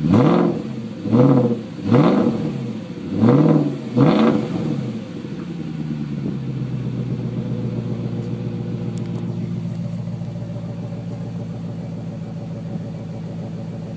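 2003 BMW 540i's 4.4-litre V8 through a Schmiedmann aftermarket exhaust, revved in five quick throttle blips, each rising and falling in pitch. After about five seconds it settles to a steady idle.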